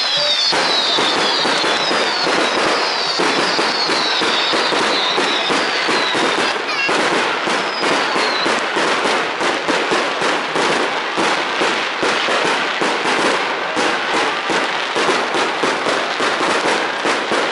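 Fireworks going off: dense, rapid crackling and popping from bursting shells. Through roughly the first eight seconds, a string of short falling whistles sounds over it.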